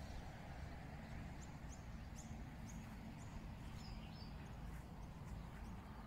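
Small birds chirping, a run of short high calls over a few seconds, above a steady low background rumble.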